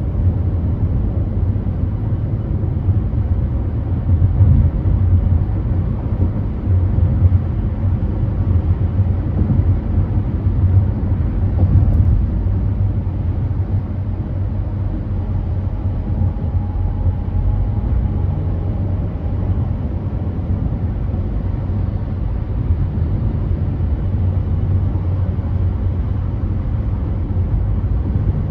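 Car cruising on a freeway: a steady low rumble of road and engine noise.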